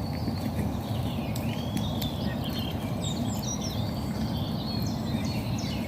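Several small birds singing and chirping, short rising and falling notes and trills overlapping throughout, over a steady low rumble.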